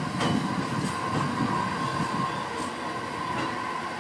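JR East HB-E300 series hybrid train running past as it pulls in. Its wheels clack over rail joints a few times over a low rumble, with a steady high tone throughout.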